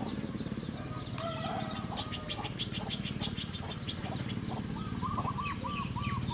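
Birds calling: quick runs of high chipping notes and strings of short repeated notes, over a steady low hum.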